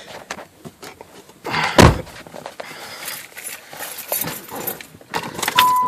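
Scattered clicks and handling noises with one heavy thunk about two seconds in, typical of a car door being shut. Near the end a steady high electronic tone starts and keeps sounding.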